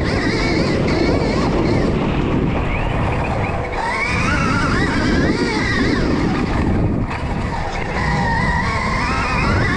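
Stark Varg electric motocross bike being ridden hard on a dirt track. Its motor whine rises and falls again and again with the throttle, over a steady low rush.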